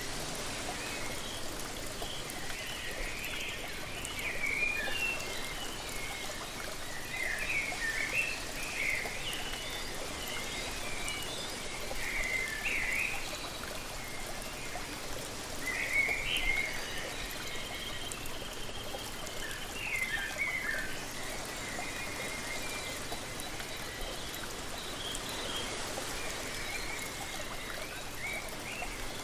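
Waterfall's steady rushing water, with songbirds chirping in short bursts every few seconds over it.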